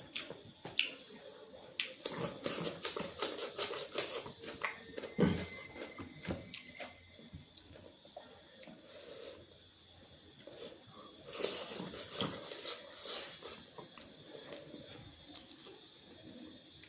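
Close-miked eating sounds: chewing and crunching with wet mouth clicks, in a dense burst from about two seconds in and another around eleven seconds, softer chewing between.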